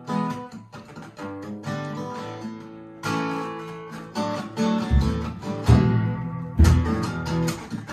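Acoustic guitar music, plucked notes and strums. Deep bass notes come in about five seconds in.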